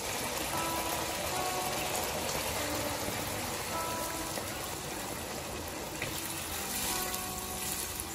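Chicken organs in a wok sizzling and bubbling in their liquid with a steady hiss. A wooden spatula stirs them near the end, over light background music.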